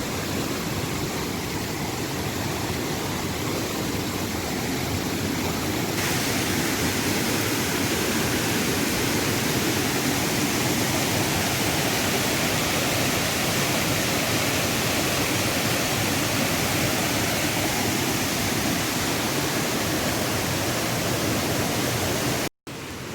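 Fast-flowing stream in spate rushing steadily, a continuous hiss of water that grows louder and brighter about six seconds in and cuts off suddenly near the end.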